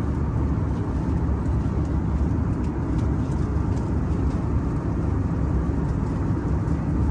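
Steady low rumble of a vehicle in motion, an even noise with no changes.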